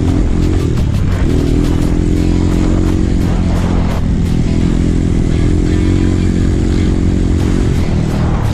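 Trail motorcycle engine running under way, its revs rising and falling over the rough track, with short clattering knocks from the bike.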